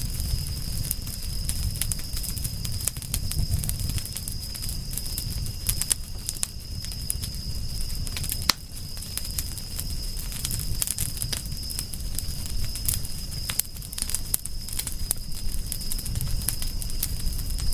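Wood fire crackling with frequent small pops and one sharper pop about eight and a half seconds in, over a low rumble and a steady high-pitched whine.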